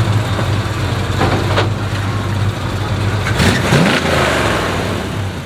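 Car engines running with a loud, steady low rumble, one of them revving briefly about three and a half seconds in.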